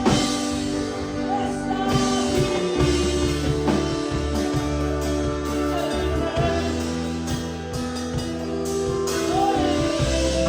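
Live worship music: a singer with a band of bass, guitar and drums, playing a Spanish-language Pentecostal chorus.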